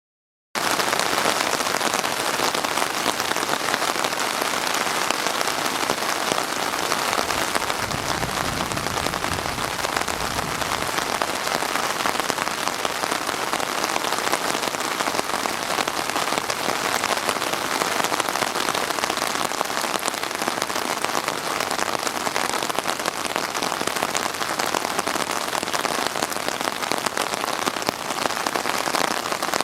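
Rain falling steadily, a dense even hiss of drops, with a brief low rumble about eight seconds in.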